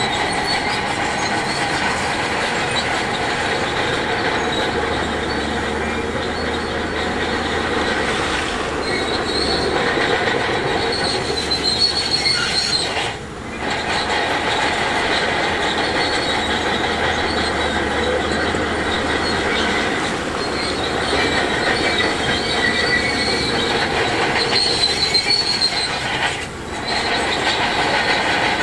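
Heavy earthmoving machinery working steadily, with a continuous high-pitched metallic squeal over the machine noise. The sound dips briefly twice, about halfway through and near the end.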